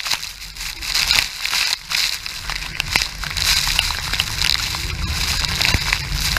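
Rushing water and spray of Iguazu Falls, a steady noisy roar with a low rumble, with many small crackles from water hitting the microphone.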